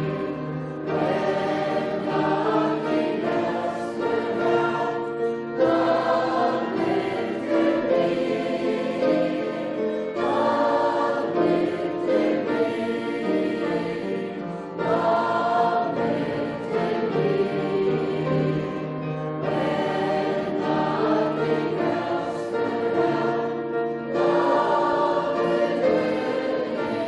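Church choir singing a hymn, in sung phrases about four to five seconds long with short breaks between them.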